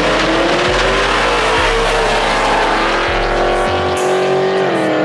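A race vehicle's engine at high revs under hard acceleration, its pitch climbing steadily, then holding, with a drop near the end like a gear shift. Music with a deep bass line, changing note about once a second, plays underneath.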